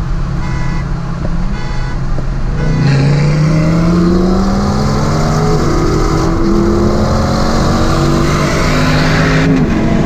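A sports car's engine holds steady revs, then accelerates hard about three seconds in. Its pitch climbs and drops back at several upshifts in a run through the gears.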